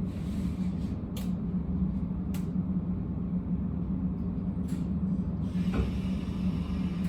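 Abukuma Express 8100 series electric train running, heard from inside the car: a steady low rumble of motors and wheels, with a few sharp clicks.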